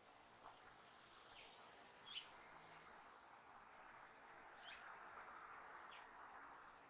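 Faint, short, high chirps from small wild birds, about four of them a second or more apart, each sliding quickly downward in pitch, over a soft steady background hiss.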